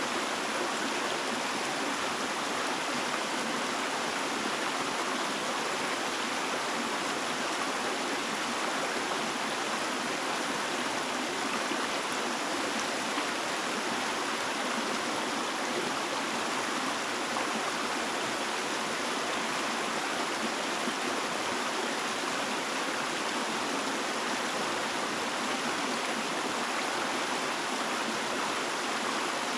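Running water rushing steadily, an even unbroken wash with no distinct splashes or pauses.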